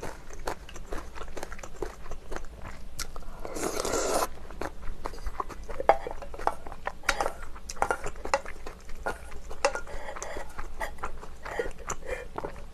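Close-miked eating sounds: chewing and swallowing spoonfuls of rice soaked in ramen broth, with many short wet mouth clicks. A louder sound of about a second comes roughly three seconds in.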